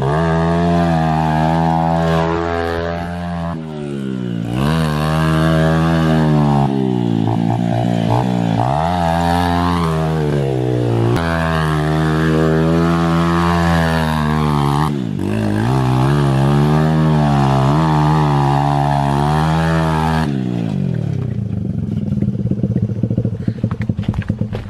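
Small dirt bike engine revving hard, the pitch climbing and then dropping off again and again as the bike is ridden through mud. About 20 seconds in the engine note cuts off suddenly, followed by scattered knocks and clatter.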